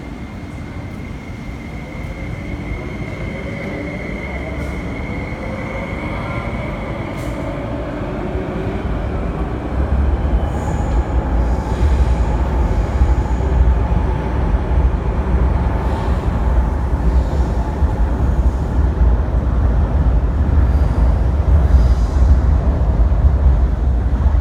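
MTR SP1900 electric multiple unit running through the station. At first there is a steady high whine and gliding motor tones as it nears. From about ten seconds in a loud, steady rolling rumble builds as the cars pass close by.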